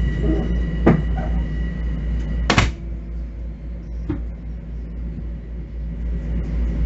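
Ride noise inside a Bombardier M7 electric multiple-unit car under way: a steady low rumble with sharp knocks about one second and two and a half seconds in. After the louder second knock a steady high whine stops and the sound drops, then slowly builds again.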